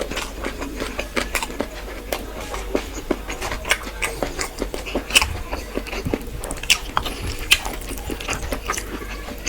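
A person eating close to the microphone: wet chewing and lip smacks, with many short irregular clicks.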